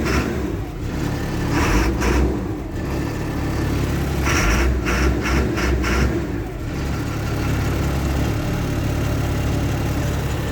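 Caterpillar 3126 diesel engine of a school bus running just after a cold start, uneven at first with several louder surges, then settling into a steady idle about two-thirds of the way in. It stays at a low idle rather than going into the cold-start high idle.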